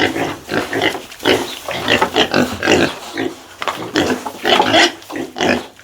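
Domestic pigs grunting and squealing, a quick run of short calls several a second.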